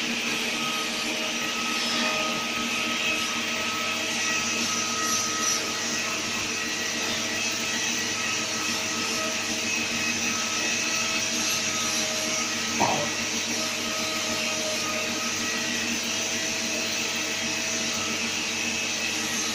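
CNC machine running steadily, a constant motor hum and whine with several steady tones, and one short click about 13 seconds in.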